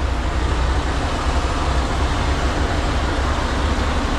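Semi-truck running, a steady low engine rumble with even road and wind noise.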